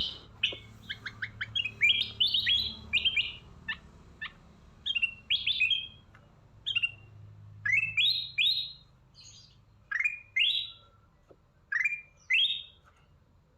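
Aviary birds chirping: a busy run of short chirps, then rising, upswept whistled notes that come in pairs several times.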